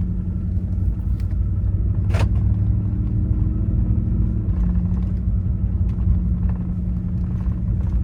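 Cab sound of a 2013 Ford F-150 Raptor SVT's Roush-supercharged 6.2-litre V8 under way: a steady low engine and road rumble, with the supercharger not whining loudly. The engine note shifts slightly about four and a half seconds in, and there is one brief squeak about two seconds in.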